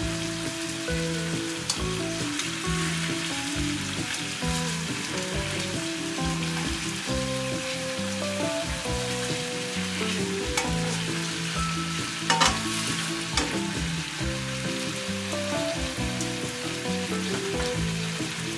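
Chicken thighs sizzling steadily as they fry in olive oil in a pan, with a few sharp clicks, the loudest about twelve seconds in. Background music with a steady beat plays underneath.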